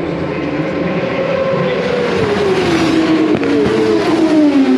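Racing superbike engines at high revs passing on the track, several engines overlapping. Their pitch falls as they go by, and the sound grows louder toward the end.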